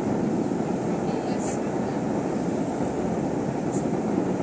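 Steady low murmur of indistinct voices and distant noise, with no distinct bangs.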